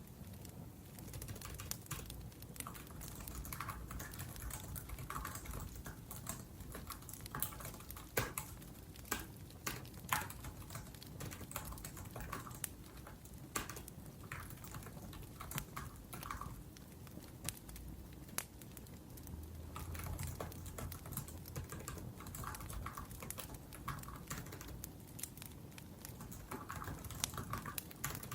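Typing on a laptop keyboard: an uneven, steady run of soft key clicks, with a wood fire crackling low underneath and giving an occasional sharper pop.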